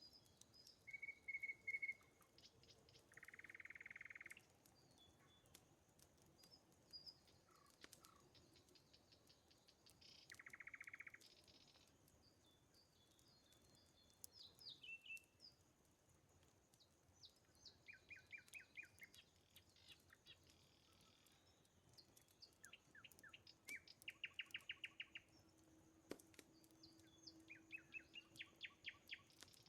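Faint birdsong from several birds: quick chirps, rapid trills and a couple of buzzy notes about a second long, with a few faint sharp clicks.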